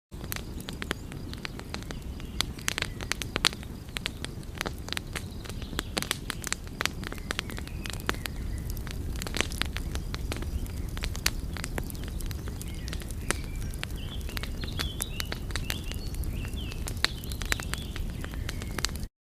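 Wood fire crackling: irregular sharp pops and snaps over a steady low rumble of burning. A few faint high chirps come about two-thirds of the way through.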